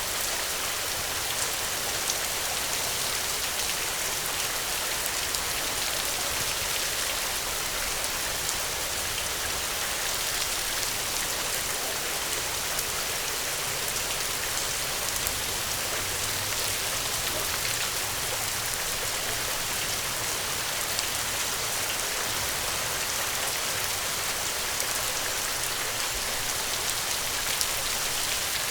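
Steady rainfall, with scattered individual drop ticks through a continuous hiss.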